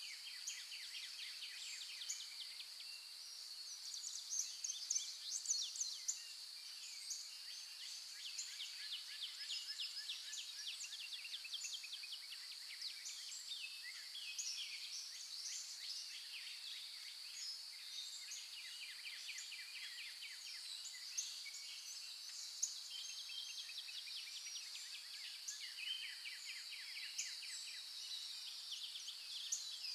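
Many birds chirping and trilling over a steady, high insect drone.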